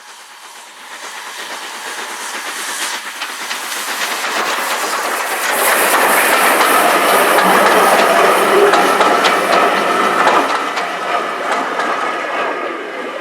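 A train passing close by on the railway line, with a rushing noise and rapid clicking of wheels over the rails. It builds to its loudest about six seconds in and eases off towards the end.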